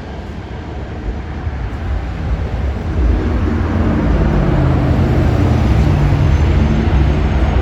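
Jet airliner engines rumbling, growing louder over the first three seconds and then staying loud.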